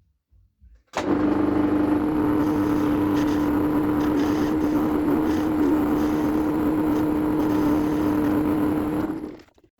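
Metal lathe running steadily with a constant humming tone, turning down the pressed-over lip on an Eaton M62 supercharger's bearing plate. It starts abruptly about a second in and stops shortly before the end.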